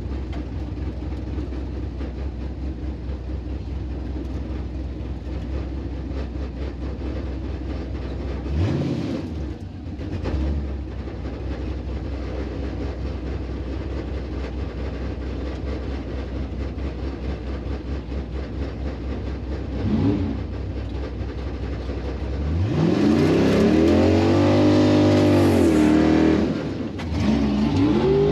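The LS-swapped Pontiac Firebird Trans Am's V8 engine idling, blipped briefly about nine seconds in and again lightly around twenty seconds, then revved up and let back down over about four seconds near the end, with another rev starting just before the end.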